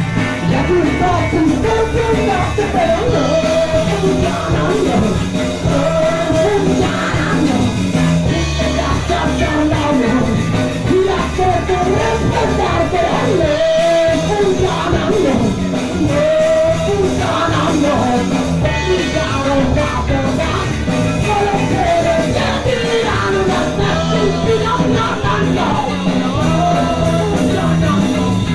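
Punk rock band playing live, with singing over the full band.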